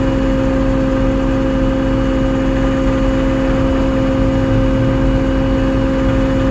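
A tow truck's engine running at a constant speed during winching, giving a steady, unchanging hum.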